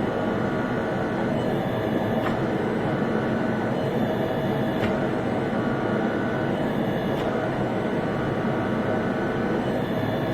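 The motor and hydraulic pump of an 8-ton log splitter converted into a forging press, running steadily. Its tone shifts every two seconds or so, with a few light clicks.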